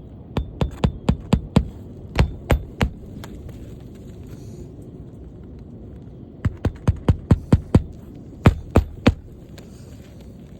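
Hammer driving roofing nails into an asphalt shingle: two bursts of quick taps, each ending in a few slower, heavier blows, over a steady low rumble.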